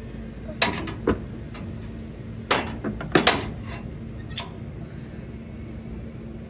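Metal parts of a brake booster clinking and knocking as they are worked into place during reassembly: about six sharp clanks over four seconds, the loudest a quick pair about three seconds in. A steady low hum runs underneath.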